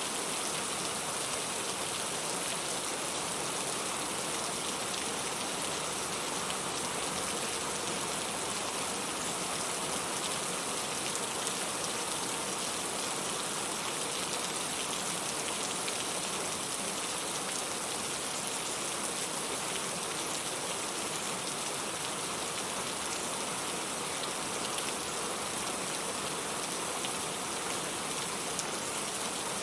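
Steady rain falling: an even, unbroken hiss with faint individual drops in it, used as pink-noise-like background sound for sleep.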